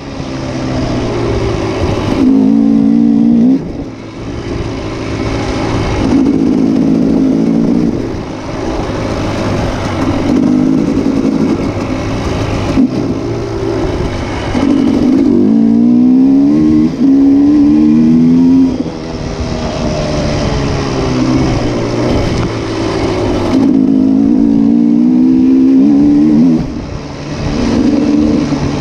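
Motocross motorcycle engines running hard, the pitch climbing again and again and dropping back as the bikes rev up through the gears. Loud throughout.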